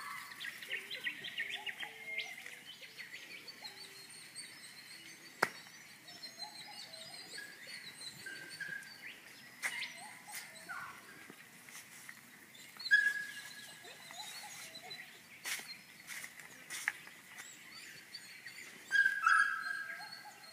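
Birds calling and chirping, with a few louder short calls about two-thirds of the way in and near the end, and a single sharp click about a quarter of the way in.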